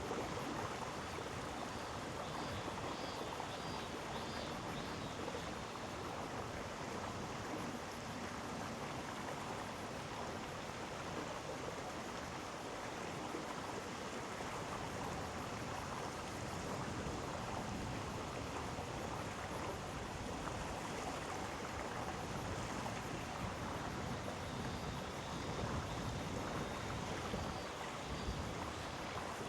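Mountain gorge stream flowing in a steady, even rush of water.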